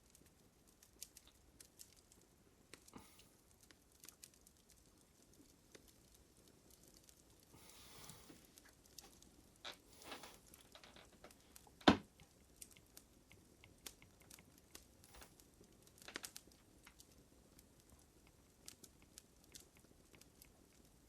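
Wood fire crackling: scattered small snaps and pops at an uneven pace, with one much louder pop about twelve seconds in.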